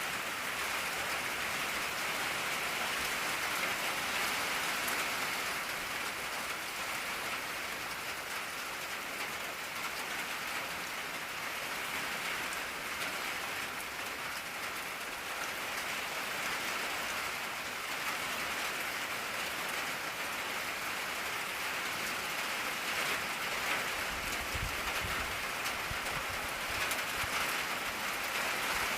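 Steady rain pattering on an old tin roof, an even hiss of drops on metal, with a brief low rumble near the end.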